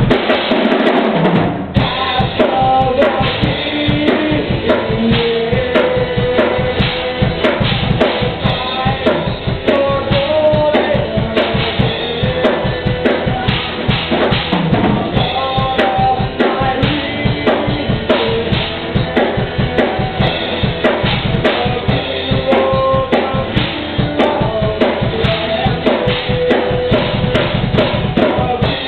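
A band playing live, the drum kit to the fore with a steady beat of bass drum and snare hits over held instrument notes.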